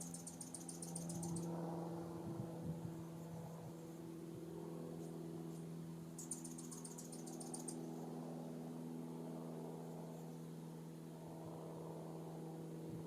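A steady low hum runs throughout. Two short trains of rapid, dry, high-pitched clicking, each about a second and a half long, come at the start and again about six seconds in.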